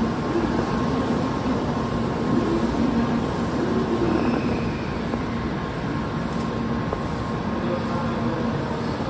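Steady hum and whir of an N700-series Shinkansen standing at the platform, its onboard equipment and ventilation running, mixed with the general noise of the station.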